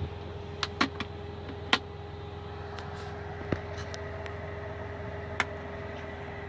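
Steady low hum of a truck's diesel engine running, heard inside the cab. About six short sharp clicks and knocks of things being handled are scattered over it, the loudest about two seconds in.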